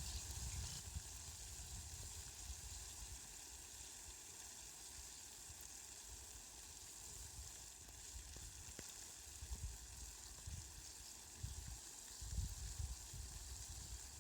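Steady hiss of falling rain, faint, with low rumbles that come and go.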